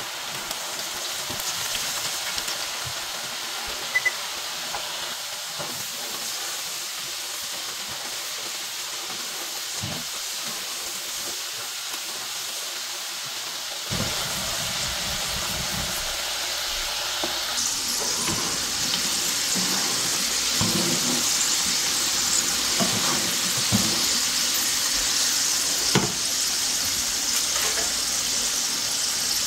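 Potato fries deep-frying in a pan of hot oil: a steady sizzle that gets louder and brighter in the second half, with a few sharp pops.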